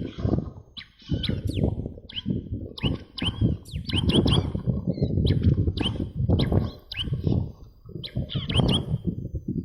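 Bar-winged prinia (ciblek batik) calls: short, sharp downward chirps repeated in quick runs, over heavy pulsing low noise.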